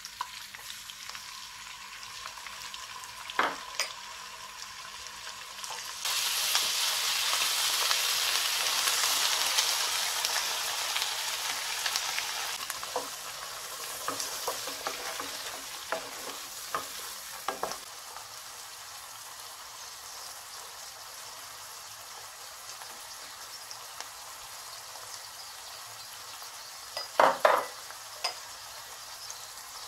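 Butter sizzling in a nonstick wok. About six seconds in the sizzle suddenly jumps loud as chopped onions go into the hot butter, then fades over several seconds, with scattered knocks of a wooden spatula stirring. A few louder knocks come near the end.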